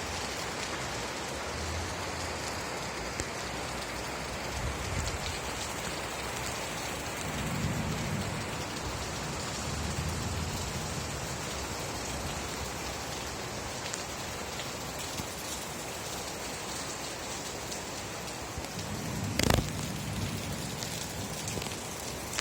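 Steady heavy rain falling, an even hiss of drops. Low rumbles rise and fade a few times, and a sharp loud crack comes near the end.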